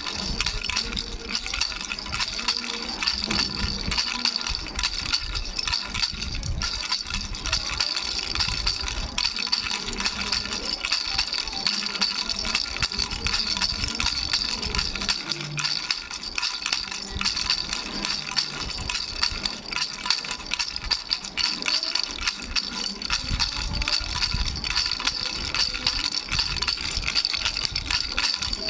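Baby's three-bell rattle shaken nonstop, its small bells jingling in a steady, dense ringing with no pauses.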